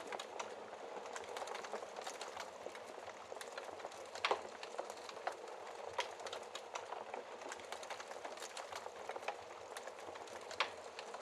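Wood fire burning in a fireplace, a steady hiss with irregular crackles and pops, the loudest pops at about four seconds in and near the end.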